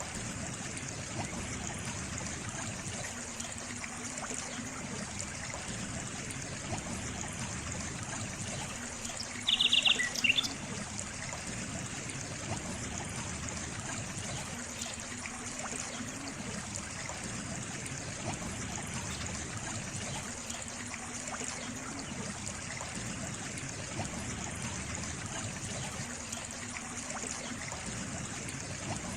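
Water trickling and running steadily, like a small stream, with a faint low swell every five or six seconds. About ten seconds in, a short, loud, high chirping call cuts through, most likely a bird.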